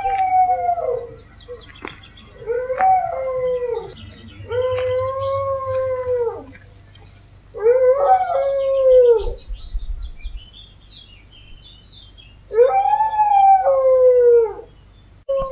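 Dog howling: a series of long, drawn-out howls, each rising slightly and then falling away over a second or two, with short pauses between them.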